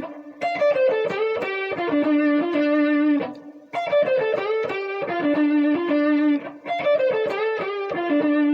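Electric guitar playing a single-note blues phrase with string bends, repeated three times with short pauses between: the fourth bent up to the fifth, then down through the minor third to the root.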